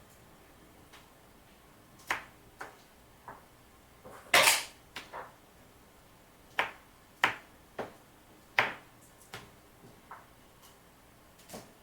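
Kitchen prep handling sounds: about a dozen scattered, irregular taps and knocks of utensils on a cutting board and counter. A longer, louder noisy one comes about four seconds in.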